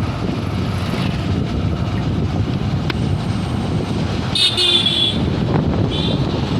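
Vehicle horn tooting high over a steady low traffic rumble: one longer toot about four seconds in, then two short toots near the end.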